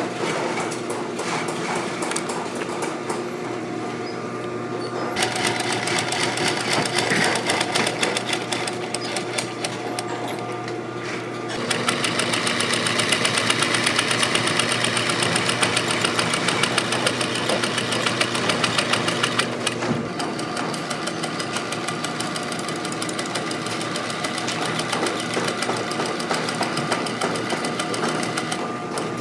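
Industrial sewing machine stitching boot leather in a fast, even run of needle strokes over a motor hum. It speeds up or works harder about a third of the way in, then eases back past the middle.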